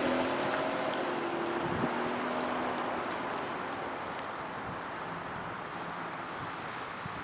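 The 1993 Nissan Cedric GT's 3.0 L V6 and its tyres, heard from outside as the car moves away, the engine tone fading over the first few seconds. Wind rushes on the microphone throughout.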